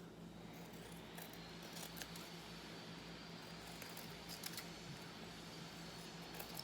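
Faint, scattered light clicks and taps of hands handling small objects, over a steady low electrical hum.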